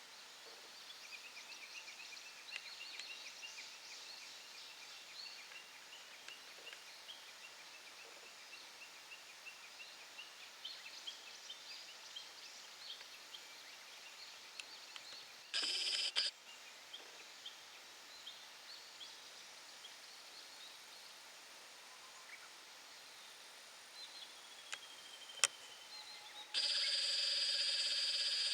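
Small wild birds chirping and calling faintly throughout. Twice a much louder pitched sound with several stacked tones breaks in, once briefly near the middle and again for a few seconds near the end.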